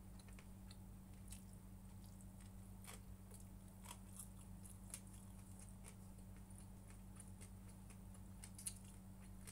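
Faint chewing with small scattered mouth clicks, over a steady low electrical hum.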